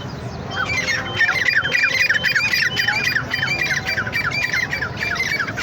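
Black francolin calling: a fast, unbroken run of short, harsh downslurred notes, several a second, starting about half a second in.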